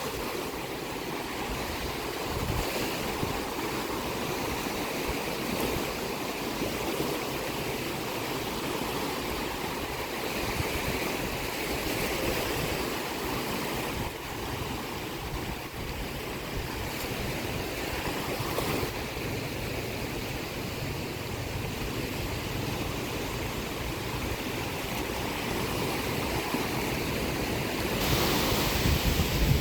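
Sea waves washing ashore, a steady rushing with gentle swells, building to a louder surge near the end.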